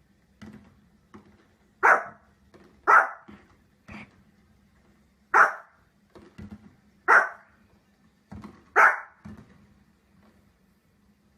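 A dog barking: five loud single barks, one to two seconds apart, with softer short sounds between them and a faint low hum underneath.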